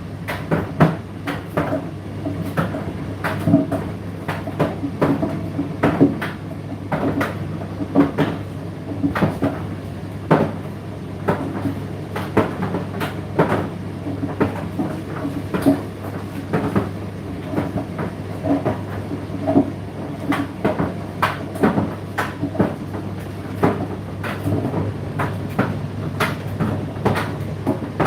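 Indesit IDC8T3 condenser tumble dryer running mid-cycle: a steady motor hum under frequent irregular knocks and thuds as the load tumbles in the turning drum.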